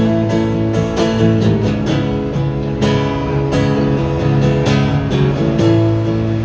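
Live acoustic guitar strumming chords over a moving bass line, playing without vocals after the last sung line of the song.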